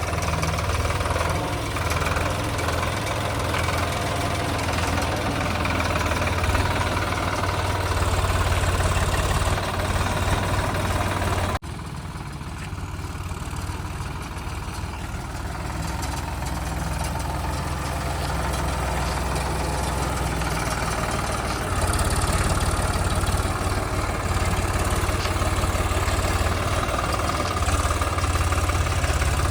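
The diesel engine of a JCB 3DX backhoe loader running steadily as it works. The sound breaks off suddenly about twelve seconds in and resumes quieter, then grows louder again about ten seconds later.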